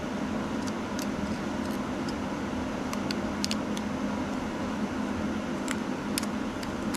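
Steady low mechanical hum, like a fan or air-conditioning unit running, with a few faint clicks of parts being handled as the vacuum pump is fitted to the engine block.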